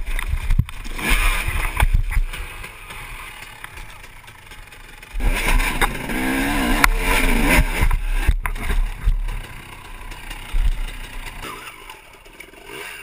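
Dirt bike engine revving in bursts, rising and falling in pitch, with its loudest, hardest revving about five seconds in, lasting a few seconds, over a low rumble.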